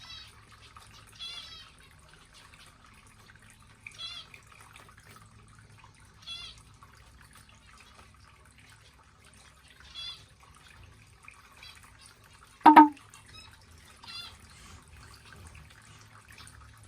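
Small pet birds giving short, nasal chirping calls every couple of seconds, over a low steady hum. One much louder short sound comes about three-quarters of the way through.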